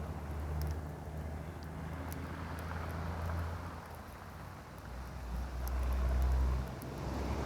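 Campfire crackling, with sharp scattered pops of burning wood, over the steady wash and rumble of ocean surf; the deep rumble of the waves swells about five seconds in.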